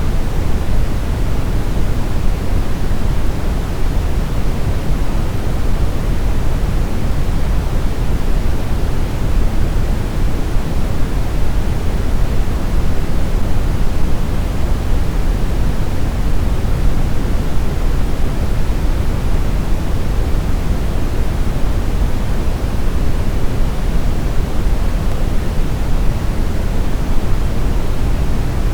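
Steady brown noise, a smooth unbroken hiss weighted heavily toward a deep rumble, with no change in level.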